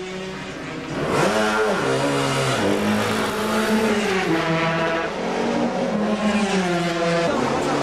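Grand Prix racing motorcycle engine revving, its pitch climbing and dropping back in several blips of the throttle.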